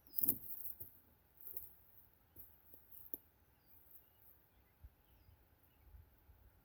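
Quiet outdoor ambience: a brief rustle just after the start, a few soft taps, and faint small bird chirps now and then.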